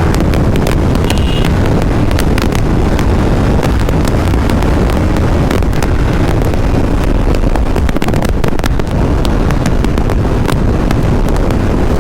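Heavy wind roar buffeting the microphone of a Honda CBR250RR motorcycle held at about 134 km/h in fifth gear on a top-speed run, with the engine running steadily underneath.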